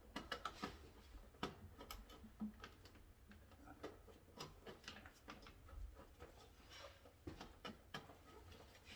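Faint, irregular small clicks and taps against a low room hum, near silence overall.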